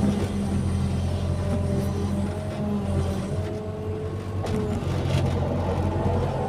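Excavator's diesel engine running steadily under load, with a higher whine that rises and falls. Two sharp knocks come about four and a half and five seconds in.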